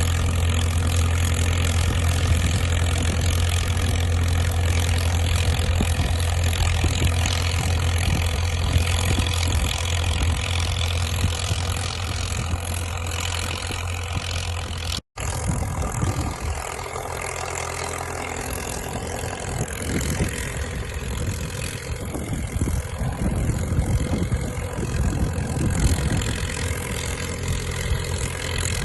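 Diesel engine of a crawler dozer running steadily with a strong low drone. It cuts out abruptly about halfway through, then carries on quieter and rougher.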